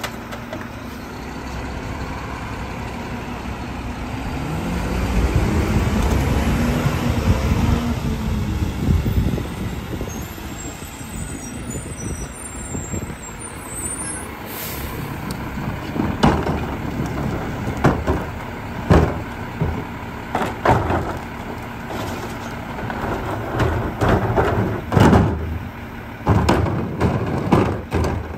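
Garbage truck's diesel engine revving up and settling back down, then running under a series of sharp clanks and bangs.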